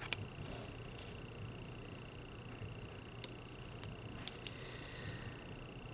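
A few light, sharp clicks and taps from handling small nail-art tools and a sticker sheet, the two loudest about three and four seconds in, over a faint steady high-pitched whine.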